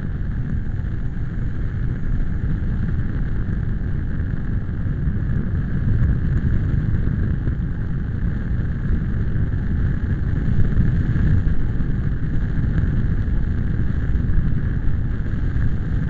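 Strong wind buffeting the microphone: a steady low rumble that swells a little in gusts.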